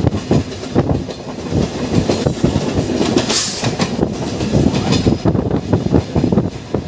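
Egyptian National Railways passenger train running on the rails, its wheels clattering over joints and points in a dense, irregular knocking, with a brief high hiss about three seconds in.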